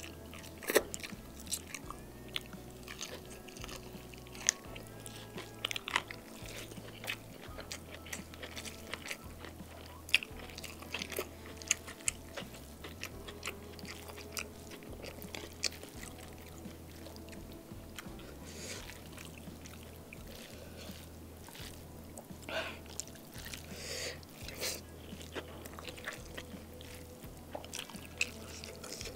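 Close-up mouth sounds of a person chewing fried chicken and green-chili beef with rice: wet chewing, lip smacks and many short sharp clicks, with squelches from food being worked by hand.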